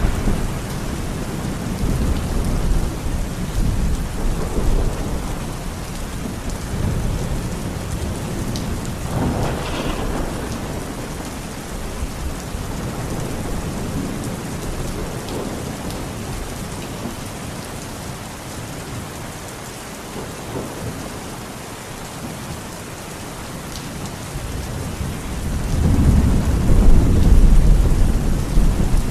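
Steady rain hissing with rolling thunder: low rumbles swell and fade, a brief one about a third of the way in and a louder, longer roll near the end.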